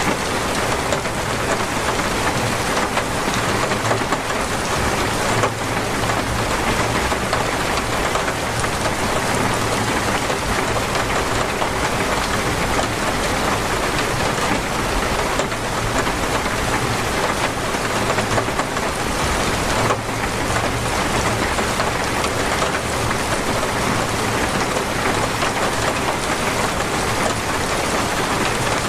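Torrential rain pouring down steadily as a dense, even hiss.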